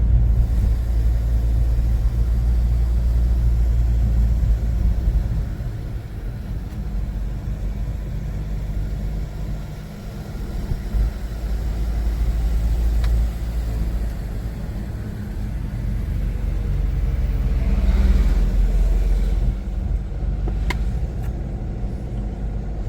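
A car driving along a road: a steady low rumble of engine, road and wind noise that swells and eases, with a couple of faint ticks in the second half.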